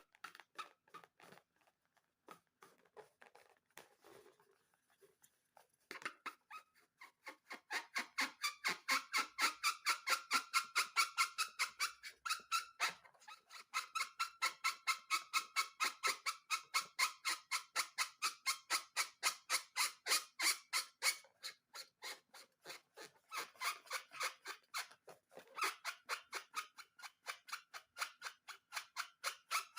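Balloon slime being worked by hand in quick, regular squishes, about five a second, each with a slight squeaky tone; they start about six seconds in after a few faint sounds.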